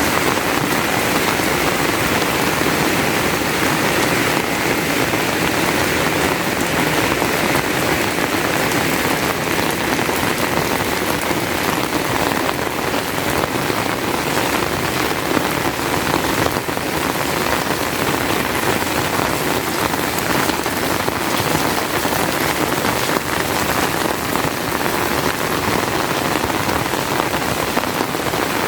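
Heavy rain falling steadily, a dense even hiss with the patter of many drops.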